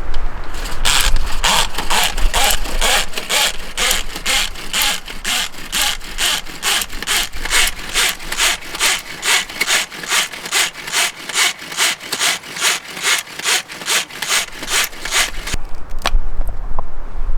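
Hand saw cutting wood in quick, even back-and-forth strokes, about three a second, starting just under a second in and stopping near the end.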